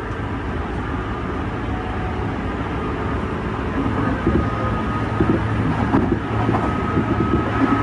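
JR West 201 series electric commuter train running at speed, heard from inside the carriage: a steady rumble of wheels on rail with a thin steady whine. From about halfway in, louder irregular knocks and clatter come through.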